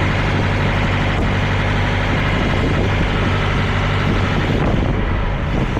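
Peterbilt 379 semi truck's diesel engine idling steadily.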